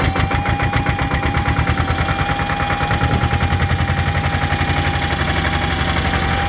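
Porsche AP18 tractor's air-cooled diesel engine running, a rapid, even chugging of firing pulses, with a steady high whine over it.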